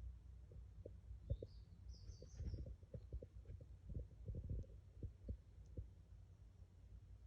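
Faint low rumble with many soft, irregular thumps, and a brief high bird chirp about a second and a half to two and a half seconds in.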